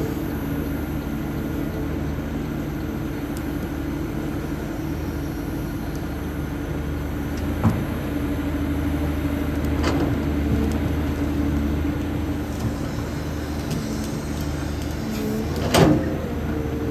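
Caterpillar 320D excavator's Cat ACERT diesel engine running steadily, with a few sharp knocks or clicks over it, the loudest near the end.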